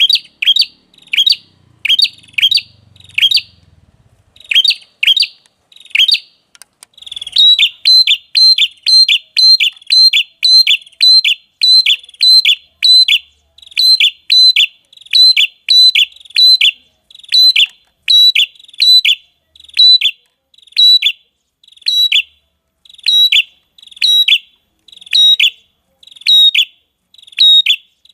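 Lure-call recording of a red-headed prenjak: sharp, repeated chipping notes, about two a second. After a short break about seven seconds in, the notes come faster and more evenly.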